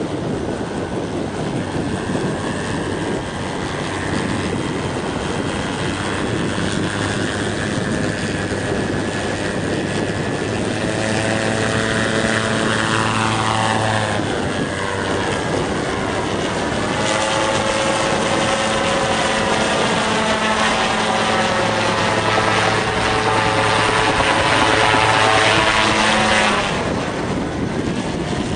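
MT-03 gyrocopter's engine and pusher propeller running in high wind, with wind noise on the microphone at first. From about a third of the way in the engine tone comes up clearly and slides in pitch, grows loudest shortly before the end, then drops away suddenly.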